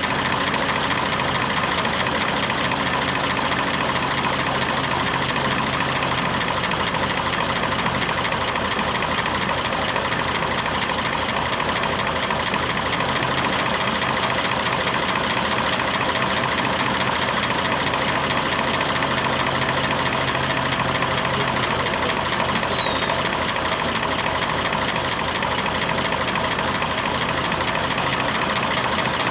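1926 Oakland's six-cylinder engine idling steadily, with an even firing beat, while its engine vacuum draws fuel up from the tank through the vacuum-tank canister.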